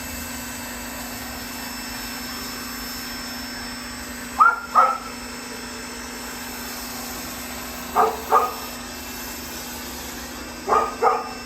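A dog barking, two quick barks at a time, three times, over a steady mechanical hum.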